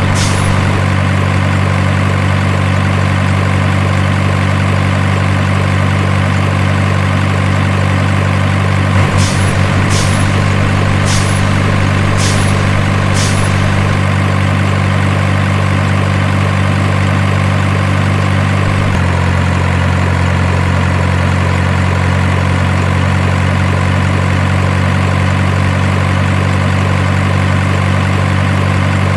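Steady truck diesel-engine idle sound, low and even. About nine seconds in, five sharp clicks come about a second apart. About two-thirds through, the engine note drops slightly and runs on.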